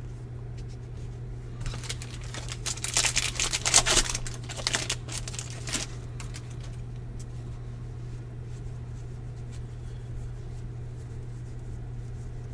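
Baseball trading cards being handled and shuffled, with a burst of rustling and quick clicks lasting about four seconds, then only faint occasional ticks over a steady low hum.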